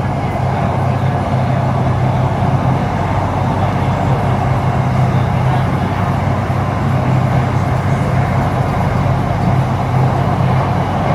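Steady running noise inside a HCMC Metro Line 1 electric train car under way between stations: a constant low hum with an even rumbling haze of wheels on rails.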